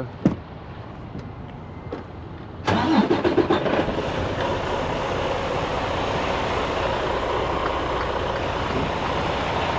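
An engine starts up suddenly a little under three seconds in, then runs steadily, with a loud, even noise.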